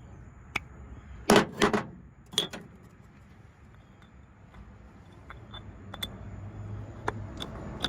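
Sharp metal clicks and knocks from parts of a Stripmeister wire stripper being handled and fitted during reassembly. There is a loud cluster of knocks about a second and a half in and another shortly after, then a few fainter clicks.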